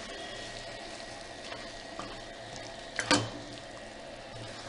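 Chicken frying in a pan with a soft, steady sizzle, a few faint clicks, and one sharp knock about three seconds in.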